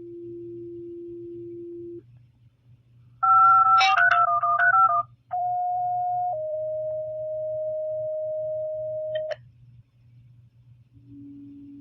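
Fire dispatch radio paging tones. A steady low tone ends about two seconds in, then comes a brief, louder run of paired higher tones. After that a two-tone sequential page sounds: a short tone of about a second drops to a longer, slightly lower tone of about three seconds. A faint low tone starts near the end, all over a steady low radio hum.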